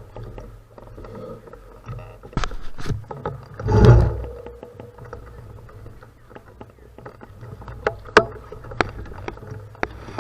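Bicycle riding on a gravel road: steady rumble of the tyres with sharp clicks and knocks from the bike rattling over bumps, and a loud rumbling burst about four seconds in.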